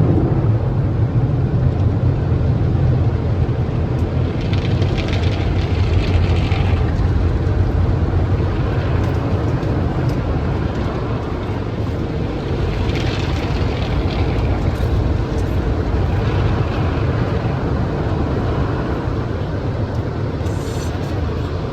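Automated tunnel car wash heard from inside the car: a steady low rumble, with several swells of hiss washing over the car.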